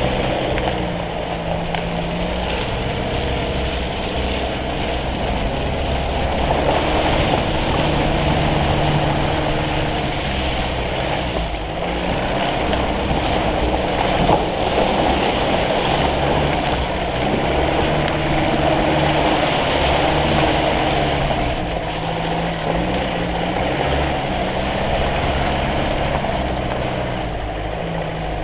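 Land Rover Defender 90's diesel engine running as it drives along a muddy track, heard from outside the driver's door. The engine note changes pitch several times as it speeds up and eases off, over steady wind and tyre noise.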